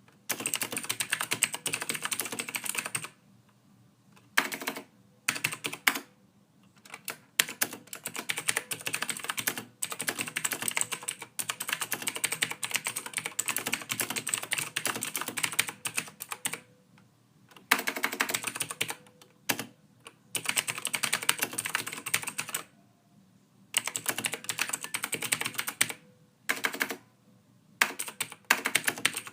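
Typing on a computer keyboard: soft key clicks in quick runs, broken every few seconds by pauses of about a second.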